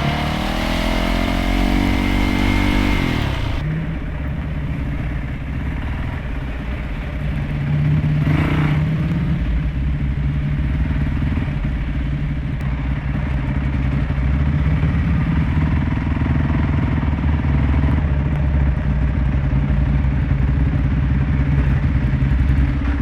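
Motorcycle engine running under way: the revs rise over the first three seconds, then it runs steadily for the rest.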